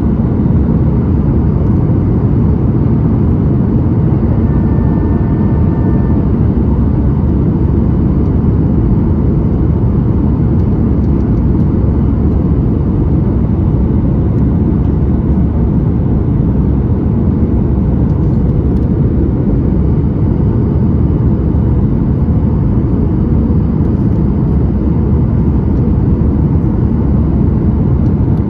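Steady cabin roar of a Boeing 737-9 MAX in flight: a deep, even rush of engine and airflow noise. A brief, faint pitched tone sounds over it about five seconds in.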